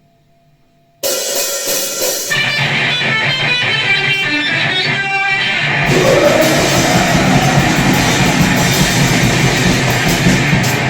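Grindcore played on distorted electric guitar and drum kit, starting abruptly about a second in after near silence. It turns heavier and denser about halfway through.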